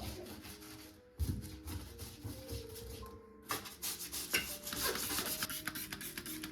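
Rough rubbing and scratching, as of something being scrubbed by hand, in quick irregular strokes that grow loud about halfway in, over soft background music.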